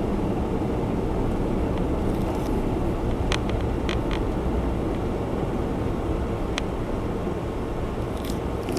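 Steady low road and engine noise inside a moving Honda Zest Spark kei car, with a few faint clicks.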